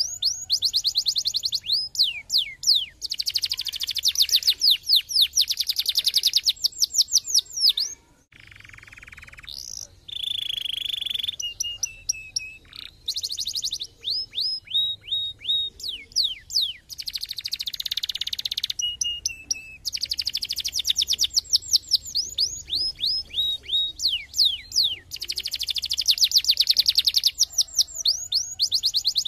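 Domestic canary singing: fast, high trills alternating with runs of quick falling whistled notes. It drops quieter about eight seconds in, then gives a short held note before the trills resume.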